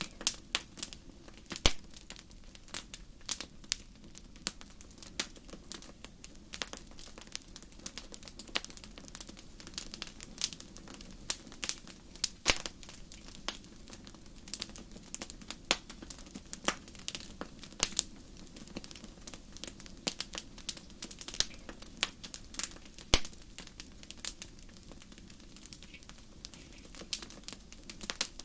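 Wood fire crackling: irregular sharp pops and snaps, several a second, over a steady low rumble of the burning fire. A few louder pops stand out, the loudest near the start and about two-thirds of the way through.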